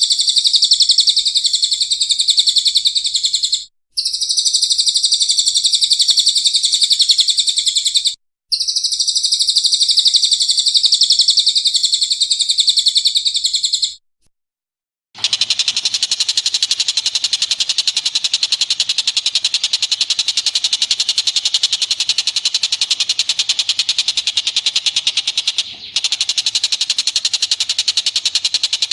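Recorded bird calls in a masteran track: a dense, high-pitched chattering song in three stretches with short breaks. After about a second of silence, a different, harsher rapid chattering call runs steadily.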